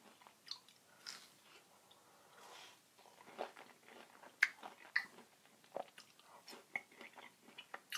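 Close-miked chewing and biting of oven-baked hash browns: irregular soft crunches and wet mouth clicks, with a couple of sharper crunches about halfway through.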